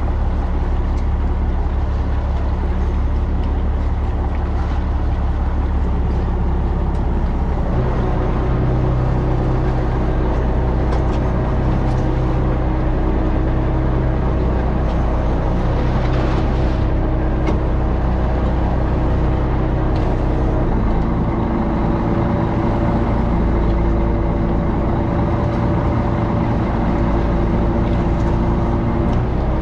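Fishing boat's engine running steadily, its pitch shifting about a quarter of the way in and again about two-thirds of the way through.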